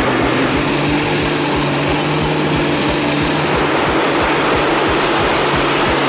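A large machine engine running steadily, with a fast, even low throb under a held drone.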